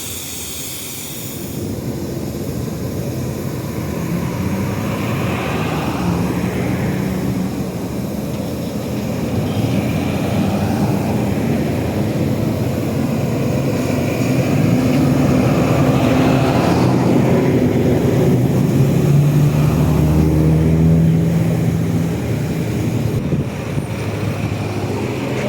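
Car engine running under way, its note shifting up and down with speed, growing louder through the middle and easing off near the end.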